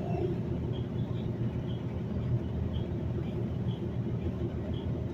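Transit bus running on the road, heard from inside: a steady low engine and road rumble. A faint high beep repeats about once a second.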